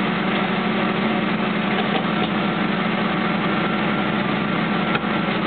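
1979 Hurst/Olds V8 running steadily at idle just after a cold start, not yet warmed up.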